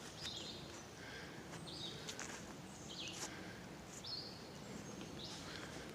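Faint outdoor ambience of birds chirping: short high calls every second or so over a steady low hiss.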